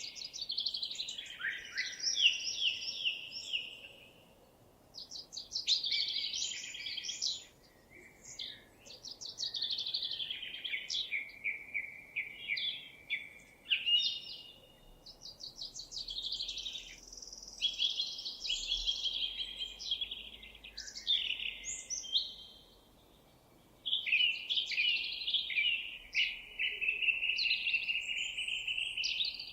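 Songbird singing long runs of fast, high warbling trills and chirps, broken by a few short pauses.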